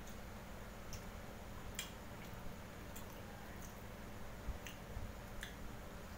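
Close-miked eating sounds: a person chewing grilled meat, with short wet clicks and smacks from the mouth about once a second, over a low steady hum.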